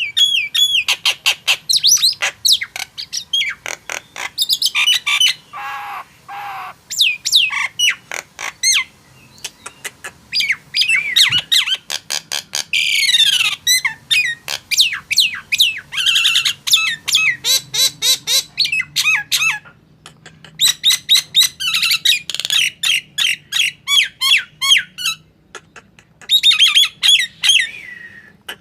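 Male Nias hill myna calling vigorously: fast runs of loud whistles, gliding notes and harsh squawks, broken by short pauses.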